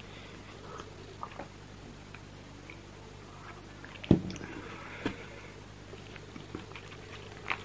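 Close-up mouth sounds of chewing roast chicken: soft wet smacks and small clicks. One much louder short thump about four seconds in.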